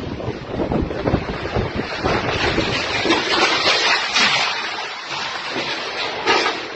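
Cyclone-force storm wind gusting unevenly and buffeting the microphone over a dense, steady rush of noise.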